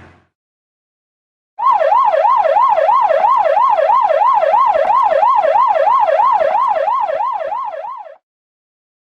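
Emergency vehicle siren sounding a fast yelp, its pitch swinging up and down about three times a second; it starts abruptly about a second and a half in and cuts off about a second before the end.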